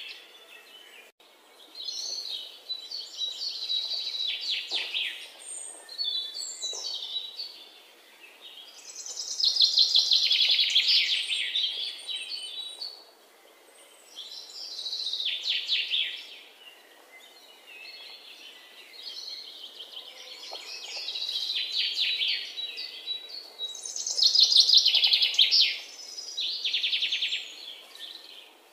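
Songbirds singing in fast, high trilled phrases, each lasting a second or two and coming again every few seconds, with quieter stretches between.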